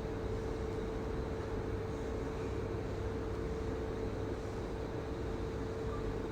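Multifunction hydrofacial beauty machine running during its ultrasonic treatment, giving a steady, unchanging mid-pitched hum over a low rumble.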